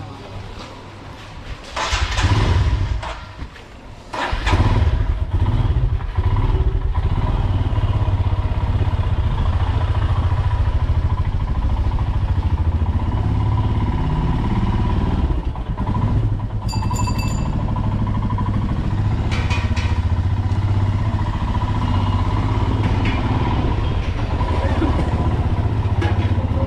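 Motorcycle engine running on a ride through city traffic. It turns loud and steady about four seconds in, with its pitch rising and falling with the throttle. A horn beeps briefly about two-thirds of the way through.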